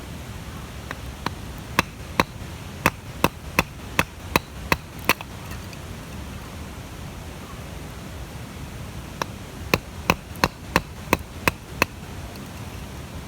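Hatchet chopping wood for the fire: two quick runs of sharp, evenly paced knocks, about three a second, the first about a second in and the second near the end, over a steady hiss.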